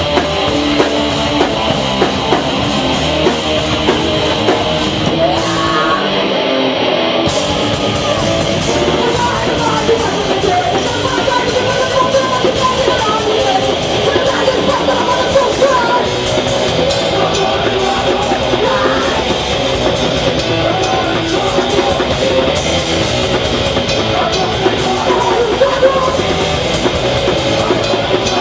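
Live hardcore punk band playing loudly: distorted electric guitars, bass and a pounding drum kit, with the cymbals and low end dropping out briefly about six seconds in.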